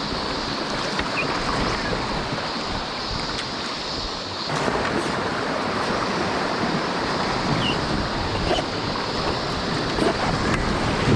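Rushing river water, with wind buffeting the microphone. It is a steady noise, and its texture changes slightly about four and a half seconds in.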